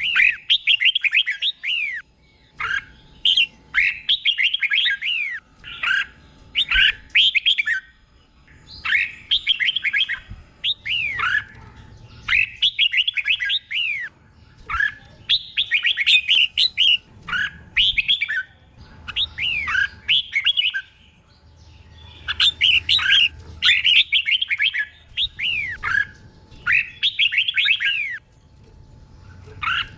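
Red-whiskered bulbul singing: short bursts of quick, chirpy notes that each slide down in pitch, repeated phrase after phrase with brief pauses, the phrases often doubled.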